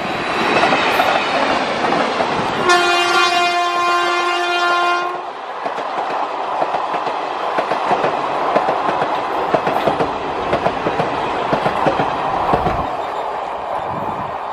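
Indian Railways electric locomotive hauling a passenger train past at speed, sounding one long steady horn blast about three seconds in. After the horn, the coaches rush by with a continuous rumble and rapid clickety-clack of wheels over the rail joints.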